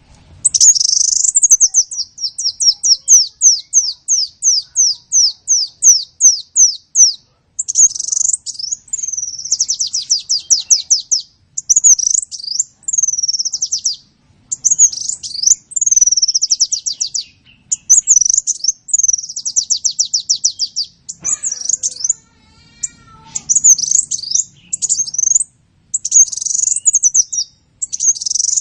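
Sunbird singing: fast runs of high, thin chirps, each note sliding downward, which alternate with quick trills and short sweeping phrases with brief pauses between them.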